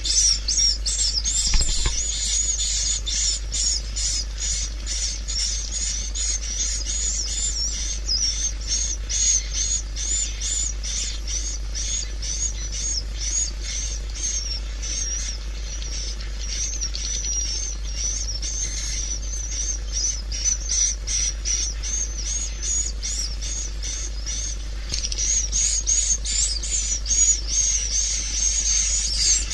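Swiftlets twittering in a dense, unbroken stream of rapid high chirps, as on a swiftlet lure-sound track played to draw birds into a swiftlet house. A steady low hum runs underneath, and the chirping thickens again near the end.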